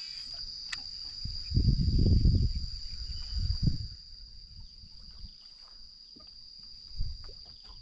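A steady, high-pitched insect chorus runs throughout. It is broken by a low rumble of handling or wind on the microphone, loudest between about one and a half and two and a half seconds in, with shorter ones near three and a half and seven seconds.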